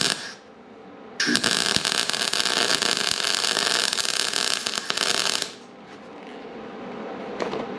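Welding on a steel race-car frame: the arc crackles and sizzles steadily for about four seconds, then stops, over a steady shop hum. A brief faint crackle follows near the end.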